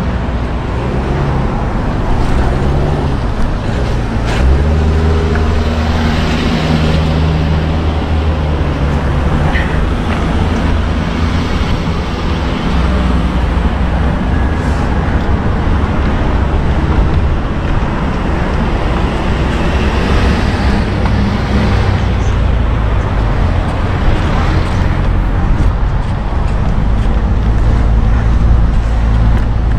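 Road traffic: motor-vehicle engines running on the road close by, a steady low hum that shifts in pitch as vehicles pass.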